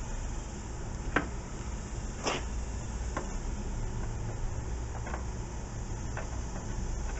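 Hand work on a car door's window mechanism: a handful of short, sharp knocks and clicks, about five over seven seconds, over a steady low hum.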